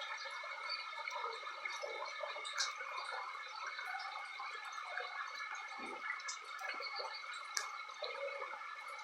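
Floodwater running and gurgling along a flooded street, with scattered drips and splashes.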